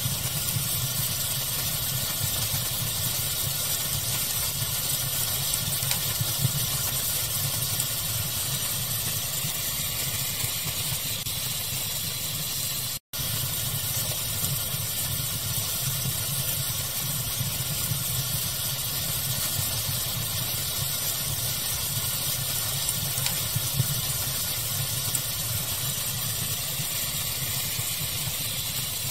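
Fire ambience mixed with pink noise: a steady even hiss with a few soft crackles and pops. The sound drops out to silence for an instant about 13 seconds in, where the recording loops.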